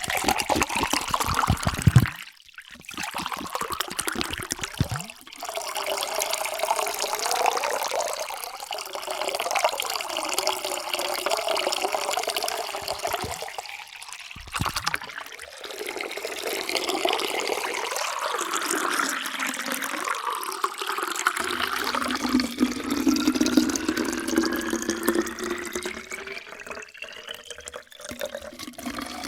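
Water being poured into a vessel in several separate pours with short breaks between them. In the last pour a clear tone rises steadily in pitch as the vessel fills.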